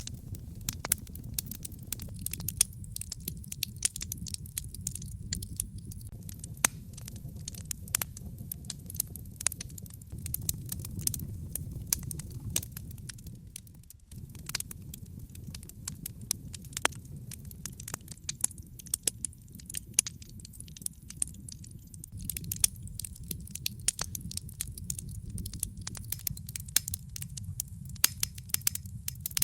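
Wood fire burning in a fireplace: a steady low rumble of flames with many sharp, irregular crackles and pops from the burning logs. The rumble briefly drops out about halfway.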